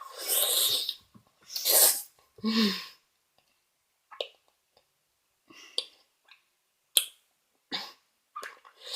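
A person blowing out three hard, noisy breaths in the first three seconds, the last ending in a short voiced groan, as a Fireball cinnamon jawbreaker burns the tongue; then only small scattered mouth clicks.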